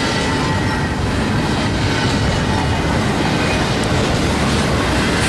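A train rolling past on the rails: a steady, loud rumble of wheels on track.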